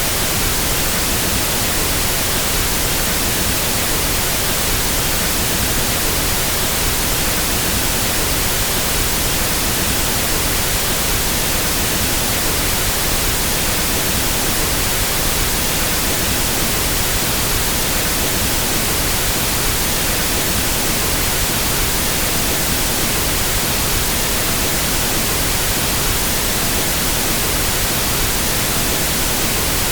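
Pink noise test signal: a steady, even hiss across the whole range, used for equalizing sound systems.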